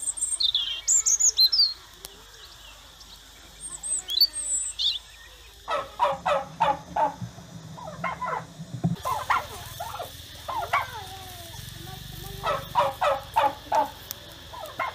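Wild birds chirping: quick high chirps in the first two seconds and again about four seconds in, then a run of short repeated call notes, several a second, through the rest.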